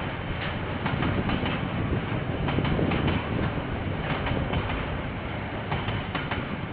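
KiwiRail train rolling past, its wheels clicking irregularly over the rail joints above a steady rumble, heard through a security camera's microphone.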